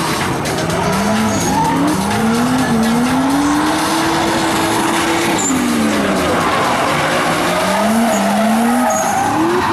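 Drift car engines revving up and down, with a long held rev about four to five seconds in that then falls away, over continuous tyre screech as the cars slide.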